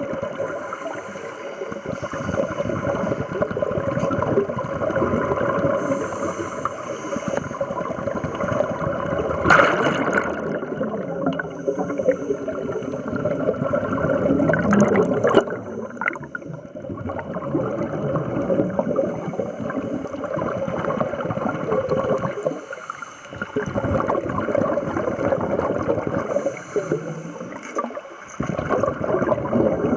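Underwater bubbling and gurgling of scuba divers' exhaled air from their regulators, in long bursts broken by short pauses.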